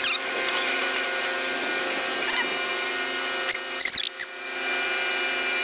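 Heavy logging machine running with a steady, high-pitched mechanical whine from its engine and hydraulics. Sharp squeaks or clanks come at the start, about two seconds in, and twice more near the four-second mark.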